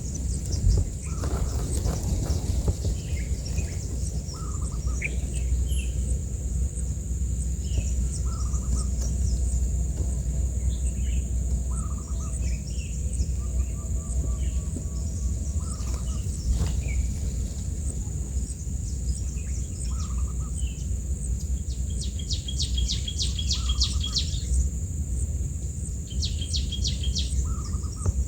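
Birds chirping with short scattered calls over a steady high-pitched buzz and a low rumble. Two bursts of fast trilling come near the end.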